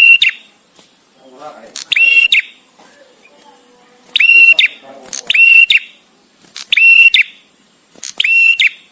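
Male prenjak tamu calling: six short, loud whistled calls, each a steady high note with clipped edges, spaced a second or two apart with pauses between.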